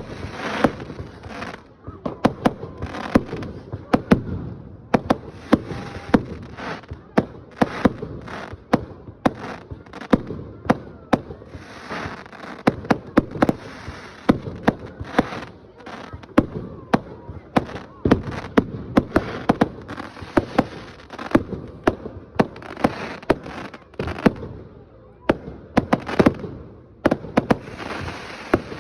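Fireworks going off: a dense run of sharp bangs and crackles, several a second, with hardly a pause.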